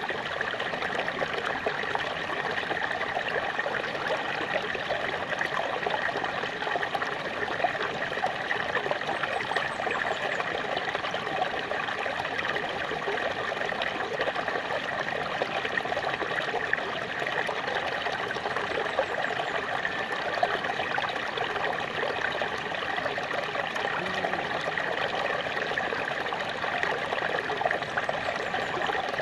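Small waterfall: water falling and splashing steadily, with a constant rushing and trickling.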